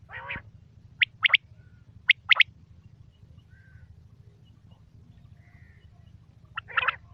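Quail calling: short, sharp notes in quick groups of three, with the groups about a second apart. A rougher, lower call opens the passage and another comes near the end.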